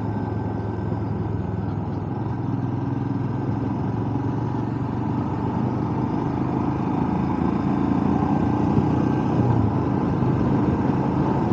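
Royal Enfield Himalayan's single-cylinder engine running steadily at road speed, with wind rush, heard from a microphone inside a closed full-face helmet. It grows slightly louder in the second half.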